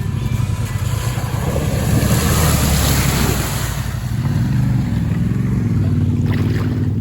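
Dual-sport motorcycle engine running through a creek, with a rush of splashing water from about one and a half to four seconds in, then the engine revving up and down.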